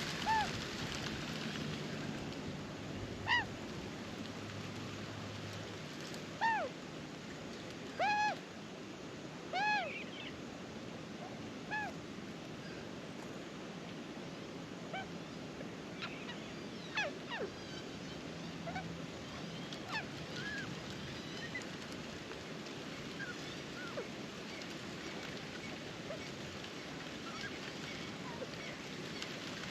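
Short, arched bird calls that rise and fall in pitch, repeated about a dozen times, thicker in the first half and sparser later, over a steady hiss.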